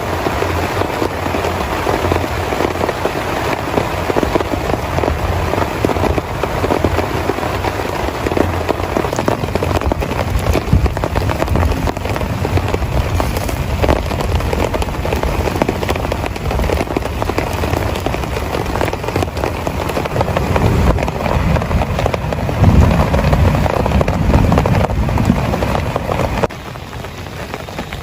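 Heavy rain pattering densely and hard on a tent, with a steady crackle of drops. It swells heavier with a deeper rumble about three-quarters of the way through, then drops off suddenly near the end.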